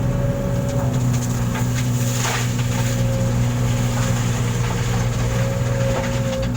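Truck engine running steadily at a constant speed, with a few faint clicks and a brief hiss about two seconds in.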